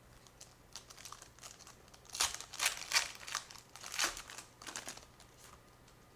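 Crinkling of a trading-card pack's foil wrapper being handled and opened, a run of crisp rustles from about two seconds in to around five seconds.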